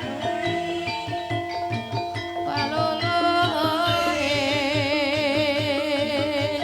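Javanese gamelan music for an ebeg dance: struck mallet-percussion notes over a steady drum beat. A singer comes in about two and a half seconds in and holds a long note with a wide vibrato.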